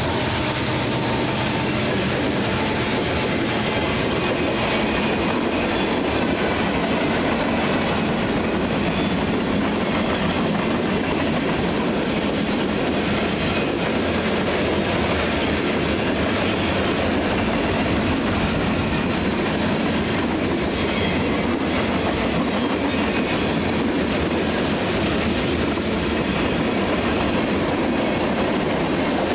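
A Union Pacific freight train's cars (covered hoppers, tank cars and boxcars) rolling past at speed: the steady, unbroken noise of steel wheels running on the rails.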